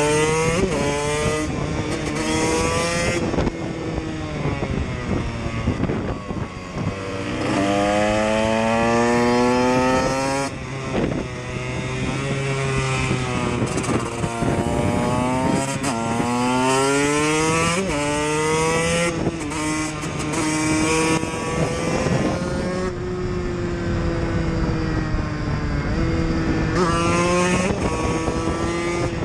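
KTM EXC dirt-bike engine being ridden hard, accelerating through the gears: the pitch climbs, drops at each shift and climbs again, several times over, with stretches of easing off where the pitch falls.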